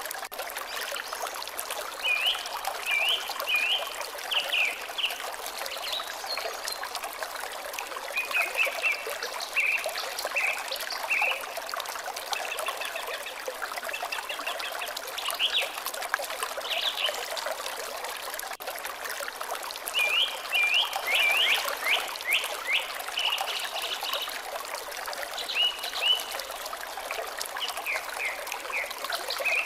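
Water trickling steadily, with songbirds singing short, high chirping phrases every few seconds over it.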